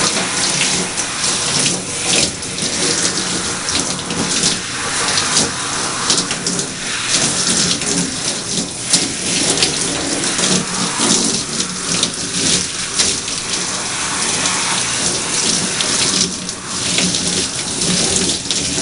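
Running tap water splashing as hair is rinsed under it, an uneven, steady splashing that goes on throughout.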